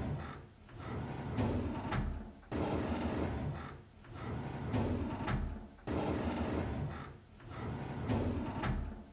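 A drawer sliding open with a rumbling, scraping run along its runners, repeated about every three and a half seconds, each time starting suddenly.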